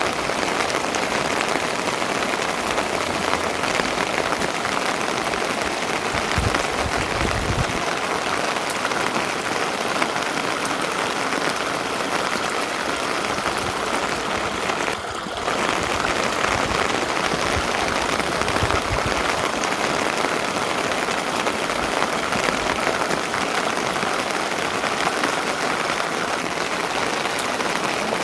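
Steady rain falling, a dense even patter that dips briefly about halfway through.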